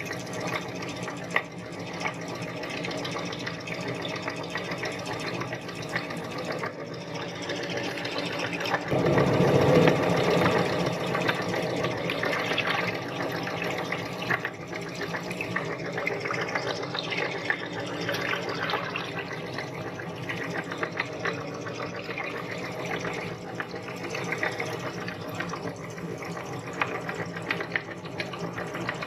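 Electric meat grinder motor running steadily as items are fed through it, with a louder grinding stretch from about nine to twelve seconds in.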